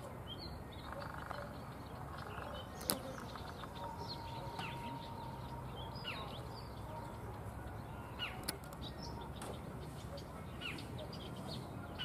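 Small birds chirping now and then: short, quick notes that fall in pitch, over a low steady background rumble. A couple of sharp clicks stand out briefly.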